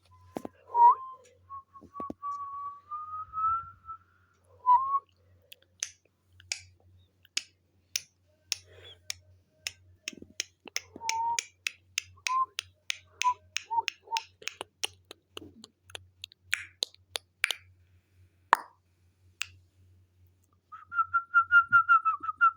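A parrot whistling: a slowly rising whistled note, then a long run of sharp clicks, about three a second, with short whistled notes among them, and a warbling whistle near the end.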